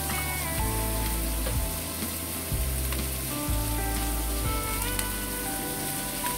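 Oil sizzling steadily in a wok as sliced shallots, garlic and minced chicken fry, with background music playing over it.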